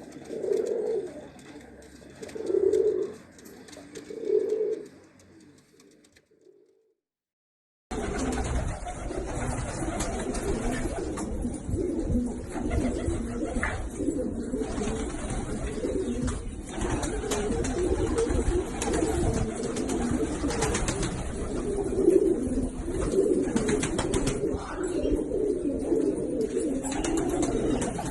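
Domestic pigeons cooing: three separate coos in the first five seconds, then, after a short break, many pigeons cooing together over a steady background noise.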